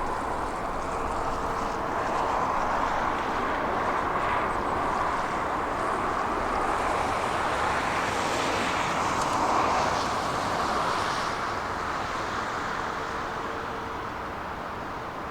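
Heavy diesel construction machinery running steadily, growing a little louder around the middle and easing off near the end.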